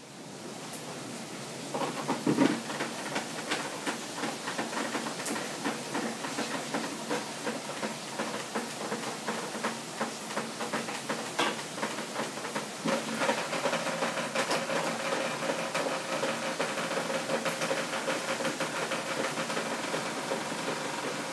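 Hail coming down and pelting hard surfaces: a dense rattle of small impacts over a steady hiss, growing louder about two seconds in.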